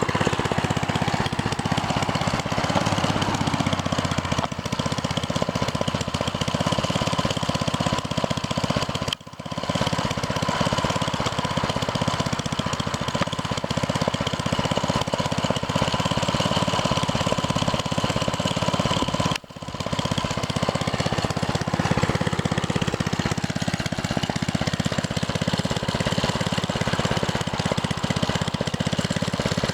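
Baja DB30 mini bike's 97cc four-stroke single-cylinder engine idling steadily, heard close up. The sound drops out for a split second twice.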